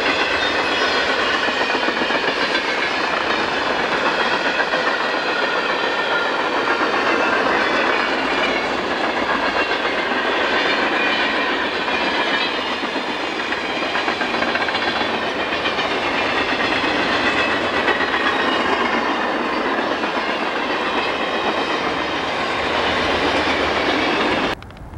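Freight train passing close at speed: a loud, steady rush of tank cars and boxcars rolling over the rails. The sound cuts off suddenly near the end.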